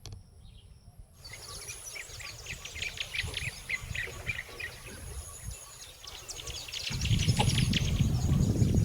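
A crowd of small birds chirping and twittering together, starting about a second in, over a thin steady high whine. About seven seconds in, a louder low rumble comes in under the chirping.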